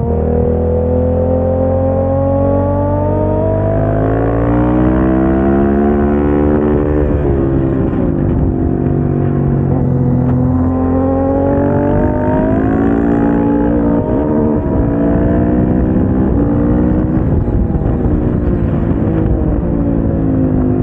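KTM 690 SMC-R's single-cylinder engine at track pace: the engine note climbs in long pulls under acceleration and drops back on braking and downshifts, several times over.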